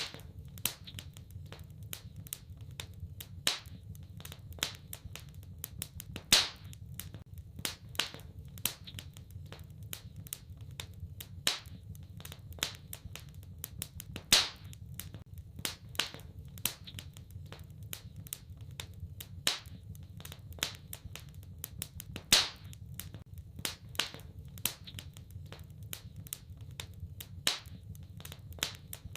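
Wood fire crackling in a fireplace: irregular sharp pops and snaps, with a louder crack every couple of seconds, over a low steady rumble.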